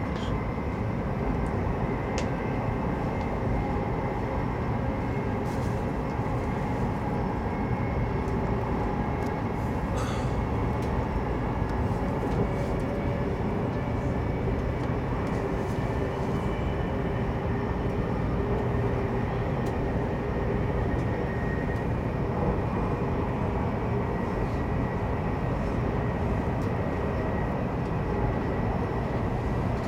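Steady running noise inside the passenger cabin of a CRH2 high-speed train: an even low rumble with a faint steady high tone over it.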